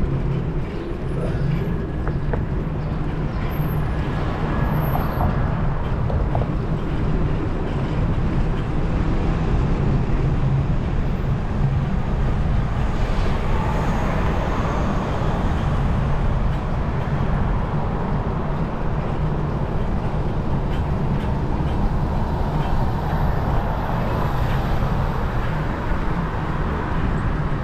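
Steady city street traffic heard from a moving bicycle, with a constant low wind rumble on the microphone under the noise of passing cars.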